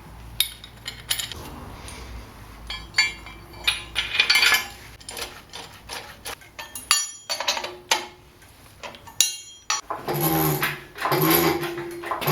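Metal hand tools and engine parts clinking and clanking in irregular knocks, as work goes on around the engine and gearbox. Near the end come two short pitched sounds, a squeak or whine, louder than the clanks.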